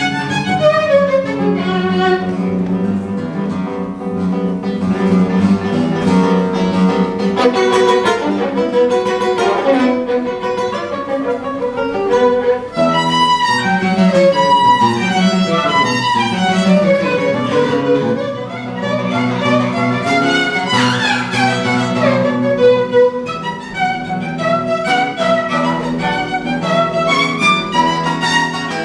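Violin and guitar duo playing lively Hutsul folk tunes, the violin carrying a quick-moving melody over guitar accompaniment.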